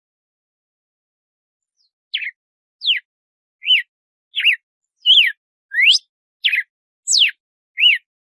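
Red-cowled cardinal (galo-de-campina) singing its 'açoite' song: after about two seconds of silence, a run of about nine short, clear whistled notes, each sweeping up or down in pitch, about one and a half notes a second.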